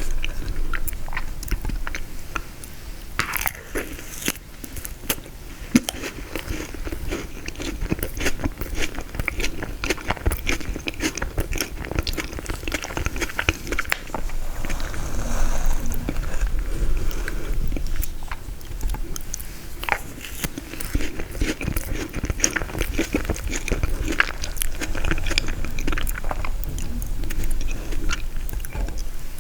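Close-miked eating of frozen tiramisu: biting and chewing with crunching and crackling, many small clicks.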